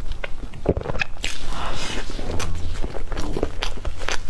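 Close-miked eating sounds: wet mouth clicks and smacks of chewing soft cream cake, with short taps of a metal fork pushing into the cake.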